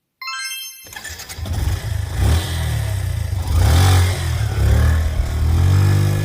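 A brief high ringing tone, then a motorcycle engine running and revving, its pitch rising near the end.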